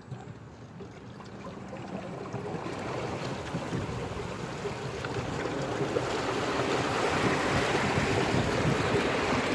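Floodwater rushing and washing, a steady noise that grows louder through the whole stretch.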